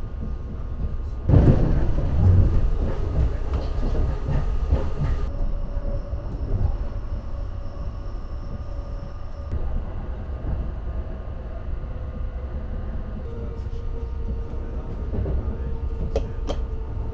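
Saphir Odoriko E261-series electric train running: a steady low rumble of wheels on rails that grows louder about a second in for a few seconds, with thin steady whining tones that come and go.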